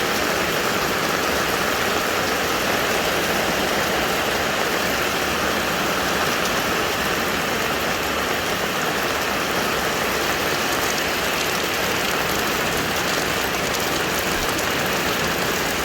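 Heavy rain pouring steadily during a storm: an even rushing hiss with no breaks.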